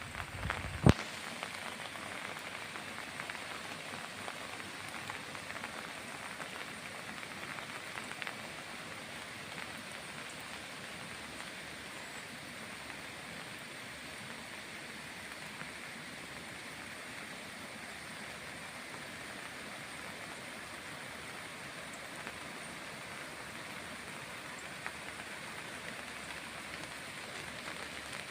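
Steady rain falling, an even hiss of drops, with one sharp tap about a second in.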